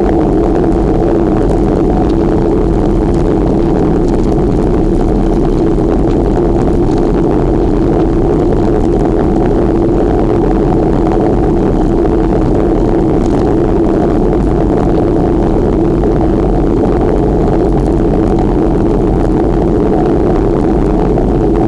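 Steady, loud rush of wind over the microphone while riding a bicycle.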